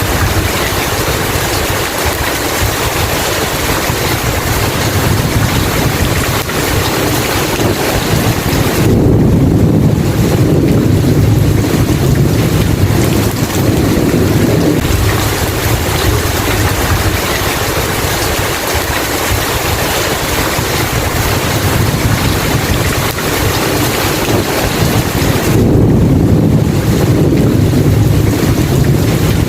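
Steady heavy rain with a loud hiss. A long, low thunder rumble rolls in about nine seconds in and lasts several seconds, and a second rumble comes near the end.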